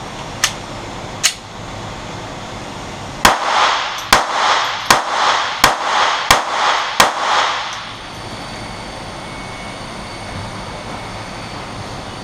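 Glock 42 pistol firing six rounds of .380 ACP 85 grain Extreme Penetrator ammunition, one about every 0.7 s, each shot ringing out briefly. The rounds feed and fire without a stoppage. Two sharp clicks come before the shots.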